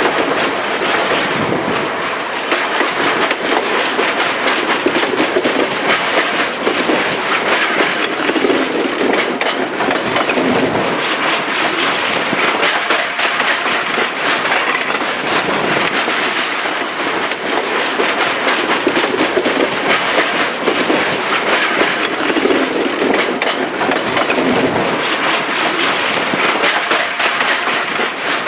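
Narrow-gauge passenger train coaches running along the track: a steady running noise with a rapid, continuous clicking of wheels over the rails.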